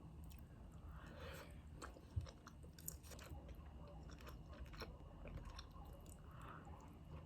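Faint, close chewing of food, with scattered small crunches and mouth clicks.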